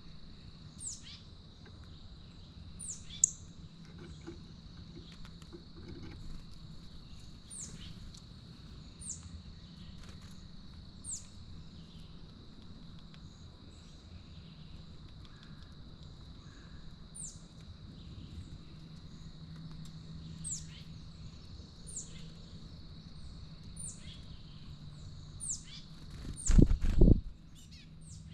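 A wild bird calling repeatedly at a feeder: short, high, downslurred chirps about every one to two seconds, over a steady thin high whine and low background hum. Near the end comes a loud low rumbling burst lasting under a second.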